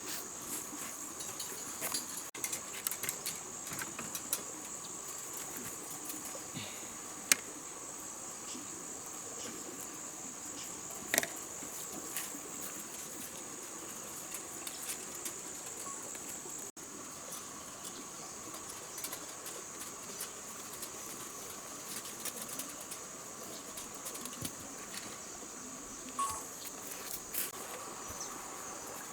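Steady, high-pitched chorus of insects, with a fainter, lower steady tone beneath it. A few sharp clicks and knocks sound at irregular times, the loudest about seven and eleven seconds in.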